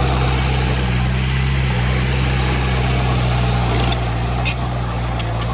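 Diesel engine of heavy earthmoving equipment running steadily under load, with sharp metallic clinks and rattles starting about halfway through.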